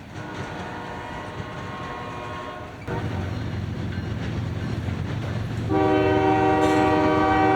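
Diesel locomotive's multi-chime air horn sounding two long blasts, the second louder, with the low rumble of the approaching train coming up between them.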